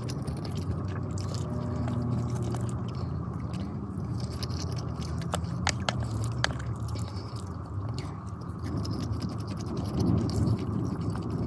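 Close-miked chewing of rice and tuna curry, with a wooden spoon scraping and clicking against a plastic food container; a few sharp clicks come around the middle. A steady low hum runs underneath.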